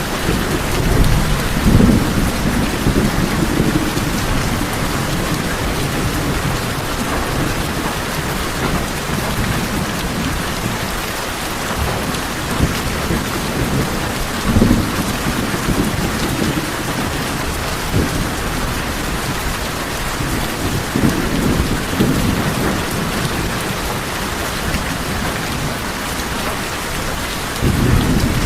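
Steady rain drumming on a tin roof, with low rolls of thunder rumbling under it near the start, in the middle, and again near the end, where the rumble swells louder.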